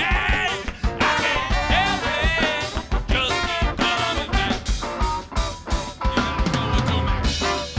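A funk band playing live: a drum kit keeps a steady beat under bass and wavering melodic lines.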